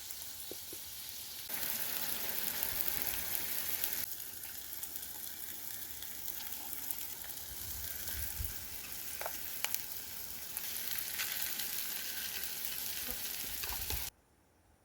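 Food sizzling as it fries in a pan, a steady hiss with scattered small pops that grows louder about a second and a half in. It cuts off suddenly near the end.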